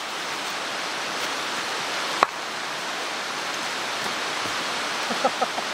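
Steady rushing of a mountain stream, with one sharp knock about two seconds in and a few small clicks near the end.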